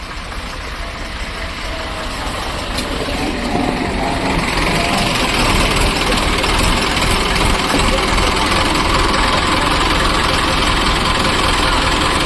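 Tractor diesel engine running hard, getting louder over the first few seconds and then holding steady under heavy load on a climb.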